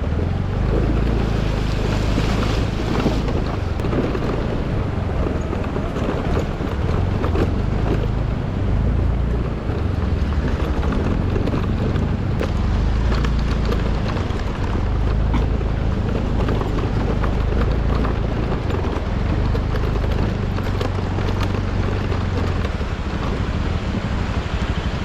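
Vehicle engine running steadily while on the move, with heavy wind buffeting the microphone.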